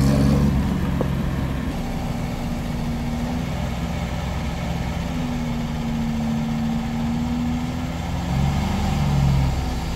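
Old Soviet car's four-cylinder engine running at low speed, heard from inside the cabin; the engine note holds steady with small changes in pitch and picks up briefly near the end.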